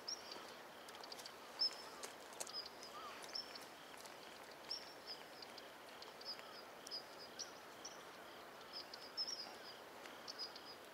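Small birds chirping over faint outdoor background noise: short, high chirps repeating every half second to a second, with a few faint clicks.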